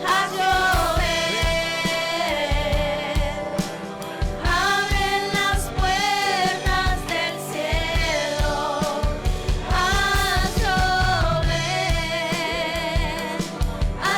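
Gospel worship music: a singing voice holding long notes over a band with a steady drum beat.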